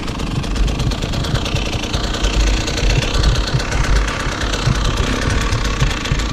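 KTM 150SX two-stroke dirt bike engine running under load on a trail, its pitch rising and falling as the throttle is worked, with many short low thumps.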